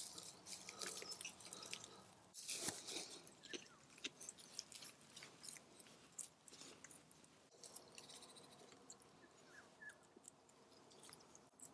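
Quiet rustling and irregular crackling clicks from close handling of plants and their pots, with a few faint distant bird whistles.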